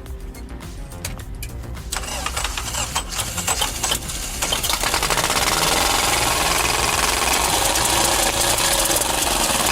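T-170 crawler bulldozer's diesel engine starting up and running. It is a low rumble with clicks at first, then becomes louder, with a dense clatter from about four to five seconds in.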